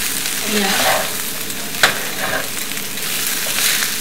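Potato masala frying and sizzling in a stainless steel pan as a spatula stirs and scrapes through it, with a single sharp clink of the spatula on the pan a little under two seconds in.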